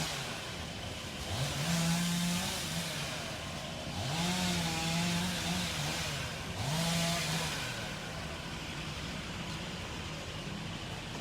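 Chainsaw engine revved in about four separate bursts, each pitch rising quickly, holding for a second or two, then dropping back to idle.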